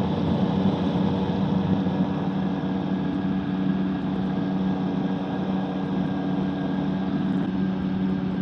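Microlight trike's engine and propeller droning steadily at cruise power, with an even, unchanging pitch.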